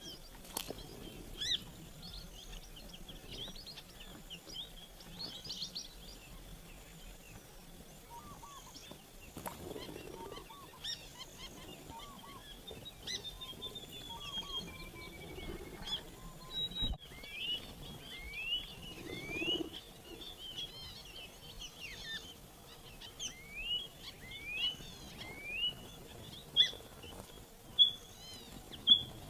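A flock of Gouldian finches chirping: many short, high calls, many of them rising quickly in pitch, overlapping one another, with a few sharper, louder chirps near the end.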